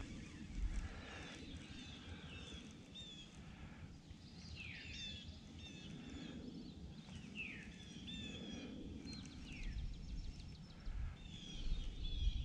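Wild birds calling and singing: scattered short chirps and downward-sliding whistled notes, with a quick trill of rapid repeated notes a little past the middle, over a faint low rumble.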